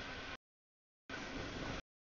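Freight train cars rolling through a grade crossing, heard as two short snatches of noisy rumble. The audio drops out to dead silence between them.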